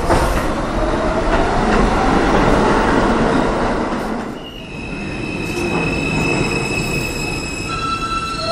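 New York City subway train running: a rising traction-motor whine over wheel and rail noise for the first few seconds, then high steady wheel squeal from about four seconds in, with more squealing tones joining near the end.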